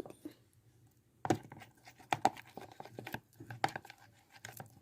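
Spoon stirring a wet, sticky mixture of glue and water in a container for slime. After a near-quiet second there is a run of irregular clicks and taps.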